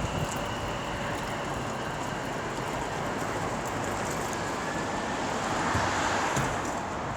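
Class 730 electric multiple unit running at the station: a steady rush of train noise that swells slightly about six seconds in.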